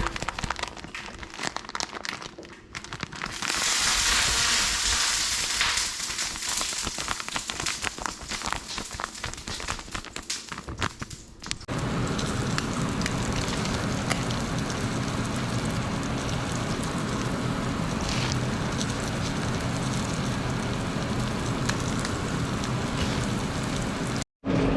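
Dense crackling and sizzling of crappie cooking over heat. About twelve seconds in it gives way abruptly to a steady, even noise with a low hum.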